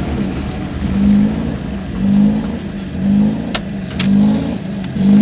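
Alfa 33 4x4's 1.7 16-valve flat-four engine idling with the car stopped, its note rising and falling about once a second. Two sharp clicks come about three and a half and four seconds in.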